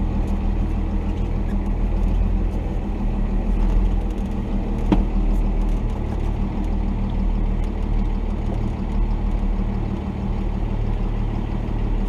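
The Cummins turbo-diesel inline-six of a 1990 Dodge D250 running steadily at low engine speed. There is a single sharp knock about five seconds in.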